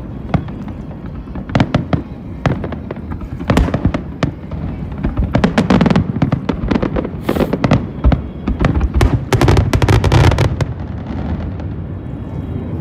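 Aerial fireworks going off in quick succession: a dense run of sharp cracks and pops over deep booms, busiest in the middle and easing off near the end.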